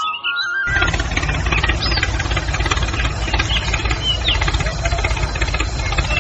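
An engine idling with a steady low knocking rhythm, starting under a second in as flute music stops.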